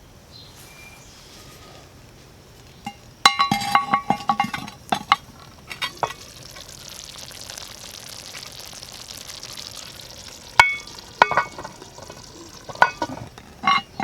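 Metal clinks and scrapes with a short ringing, around a cast-iron Dutch oven set on hot coals, in two clusters. Between them a steady sizzling hiss, as of food cooking in the pot.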